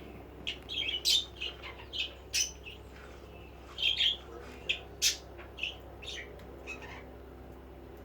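Budgerigars chirping in a quick series of short, sharp calls that thin out and stop near the end.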